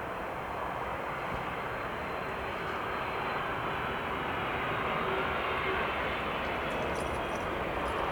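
Jet engines of a Boeing 767-400 airliner, a steady rushing rumble that slowly grows a little louder.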